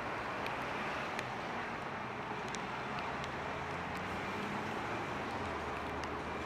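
Steady rain hiss with scattered drops ticking, over a low rumble of city traffic on wet roads.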